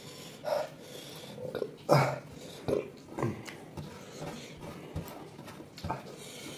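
Close mouth sounds of a man eating: chewing and smacking in short, irregular bursts.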